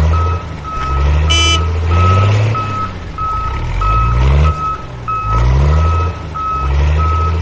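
Vehicle reversing alarm beeping steadily at one pitch, about every 0.6 s, over an engine that revs up in repeated surges. A brief high chime sounds about a second and a half in.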